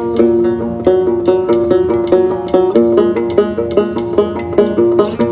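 Instrumental break: a plucked string instrument picks a quick run of notes, about four or five a second, with no singing.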